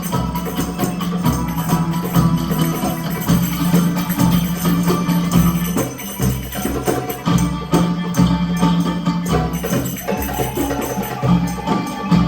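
Live instrumental music with a steady low drone and a regular beat of jingling, struck percussion such as a tambourine.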